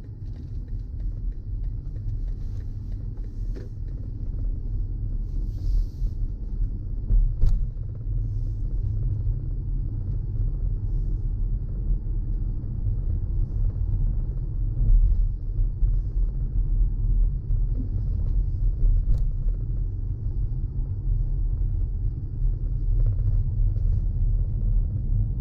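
Steady low rumble of a car being driven, heard from inside the cabin: engine and road noise, getting a little louder over the first few seconds, with a few faint clicks.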